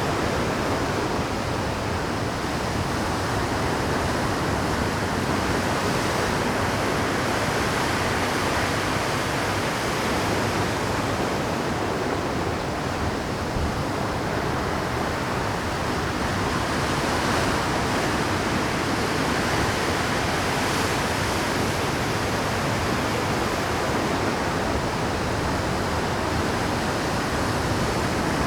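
Rough Pacific surf at high tide breaking continuously against a rocky shore, a dense, steady roar of rushing water that swells and eases slightly.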